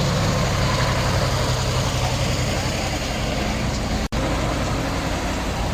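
Street noise with a vehicle engine running steadily, a low hum under a wash of background noise. It drops out for an instant about four seconds in.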